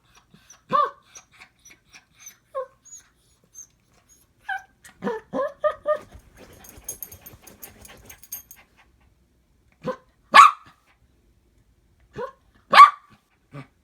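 A dog barking in single, separate barks with quieter yips between them; the two loudest barks come late, a couple of seconds apart.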